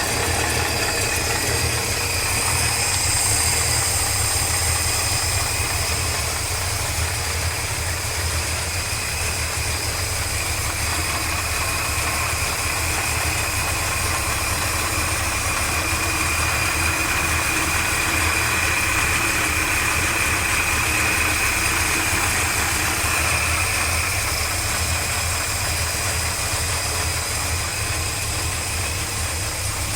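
Engine idling steadily, with a faint high whine above the low running note that grows a little stronger midway, then eases off.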